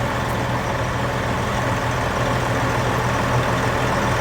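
2001 Freightliner Century semi truck's diesel engine idling steadily, with a low, even hum; it runs without emissions equipment, on a straight turbo and exhaust.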